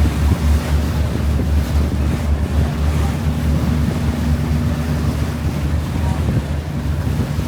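River cruise boat's engine running with a low, steady hum, heard from on board, mixed with water noise and wind buffeting the microphone.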